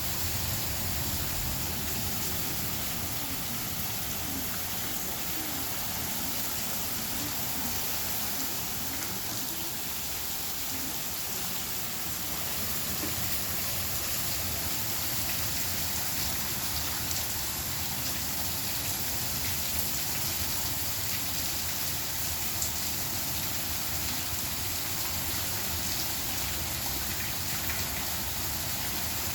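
Rain falling steadily during a severe thunderstorm.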